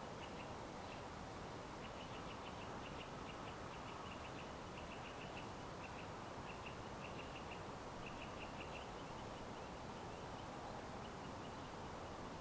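Small birds chirping in quick clusters of short high notes, over a steady background hiss.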